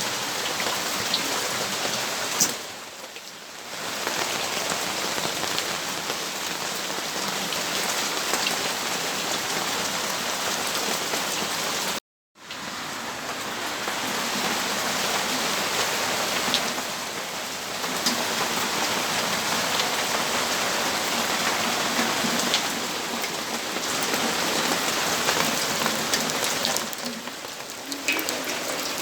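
Steady rainfall, an even hiss with a few single drops standing out. It softens briefly a few times, and the sound cuts out completely for a moment about twelve seconds in.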